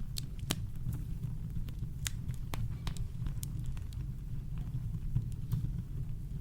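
Campfire crackling: sharp pops and snaps scattered over a steady low rumble of brown noise, the pops thicker in the first half and sparser later.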